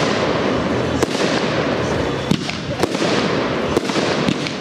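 Aerial fireworks bursting: a dense, continuous crackle with several sharp bangs through it.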